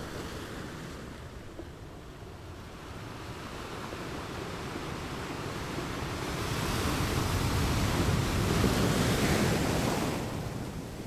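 Wind on the microphone over choppy water, with waves lapping. The rush grows louder through the middle and falls away about ten seconds in.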